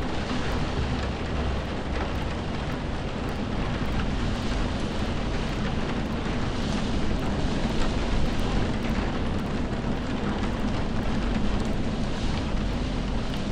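Steady rain ambience: a dense, even hiss of falling rain over a continuous low rumble, a little louder in the middle.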